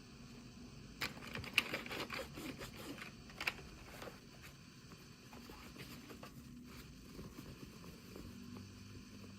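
Hands handling and opening small plastic toy packaging: a run of clicks, crinkles and scrapes starting about a second in and lasting about three seconds, with two sharper clicks, then fainter rustling.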